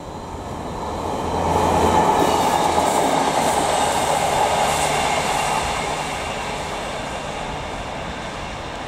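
Class 390 Pendolino electric train and Class 150 diesel multiple unit running side by side on curved track: a steady rail rumble with a low diesel engine drone and a faint high whine. It swells to its loudest about two seconds in and eases off slowly.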